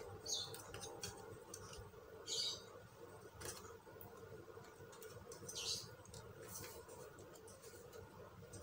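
Faint handling noise of plastic laptop parts: a few short scratchy scrapes and small clicks as the casing and connectors are fitted back together.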